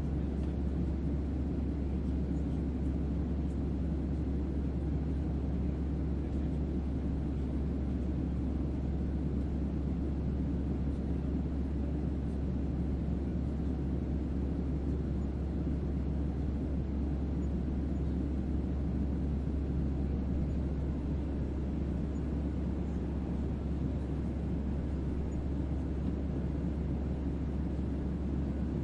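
Steady, deep ambient hum of a white-noise track made to sound like a spaceship's onboard drone: a strong deep bass tone under an even, low rumbling noise, with no change or break.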